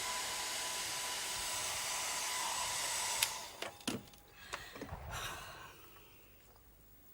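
Hand-held hair dryer blowing steadily with a faint whine, switched off about three seconds in. A few light knocks and clinks follow.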